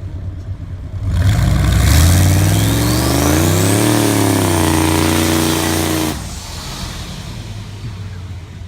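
Turbocharged Chevy truck engine revved hard from idle, with a high whistle from the turbo rising in pitch as it spools up. The revs are held for a few seconds, then the throttle is let off suddenly about six seconds in and the engine falls back to idle.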